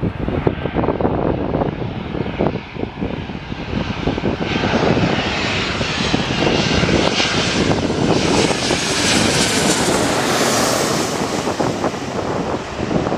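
Airliner's engines passing close by: a loud rushing with a high whine that swells to its strongest about two-thirds of the way through, bending in pitch, then begins to fade.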